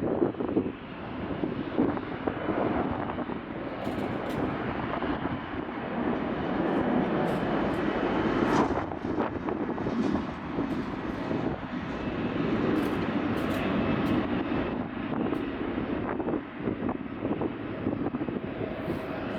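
Twin jet engines of a Skymark Boeing 737 at takeoff power as it departs. The loud, continuous noise rises and falls in strength throughout.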